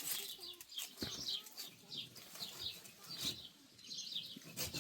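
Small birds chirping in quick, repeated short calls, with a few sharp knocks in between.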